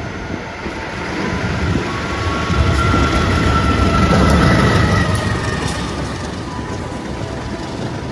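A train passing through the station: the rumble of its wheels on the rails swells to its loudest in the middle and then eases off. A thin steady tone rides on it while it is loudest.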